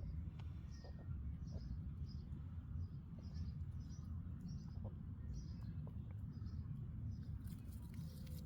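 A small animal chirping: short high chirps repeated roughly twice a second, over a steady low rumble.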